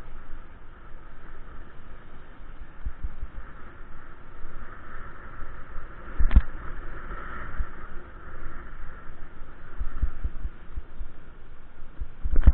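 Irregular low thumps and rumble over a steady hiss, from wind and bumps on a microphone carried on a moving bicycle, with a sharper knock about halfway through.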